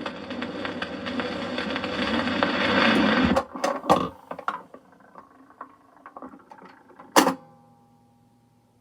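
The final bars of a 1932 dance-band 78 rpm record, building to a last chord that stops abruptly about three and a half seconds in. Then a run of scattered mechanical clicks and knocks from the record player, with one loud click near the end, after which it falls silent.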